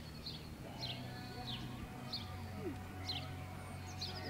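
A small songbird calling over and over, each call a quick down-slurred chirp, about every two-thirds of a second. A second bird gives a short, fast trill near the end.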